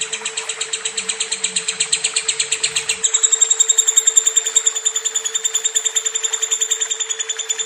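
Lovebird giving a long, rapid chattering trill of about ten high chirps a second, shifting to a higher, thinner tone about three seconds in, over a steady low hum.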